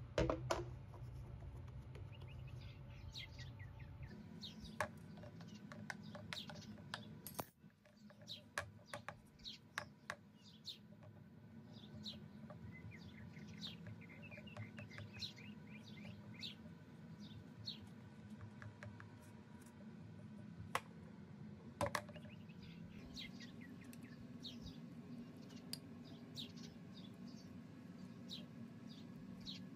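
A small bird chirping again and again in short quick notes, over a steady low hum, with a few sharp knocks.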